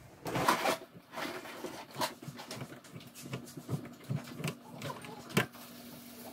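Plastic sink drain pipe parts being handled and worked loose: a short scrape about half a second in, then scattered light clicks and knocks, the sharpest just after five seconds.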